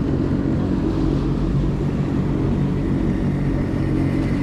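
Jet ski engine running steadily at a constant speed, a low even hum with no revving.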